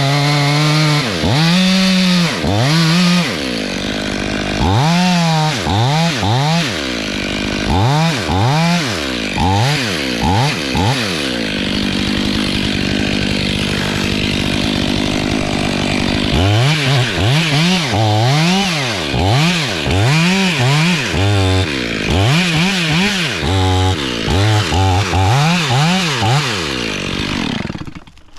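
Chainsaw cutting through a dead log, its engine pitch dipping and recovering again and again as the chain bites into the wood, with a steadier stretch partway through. The saw cuts off near the end.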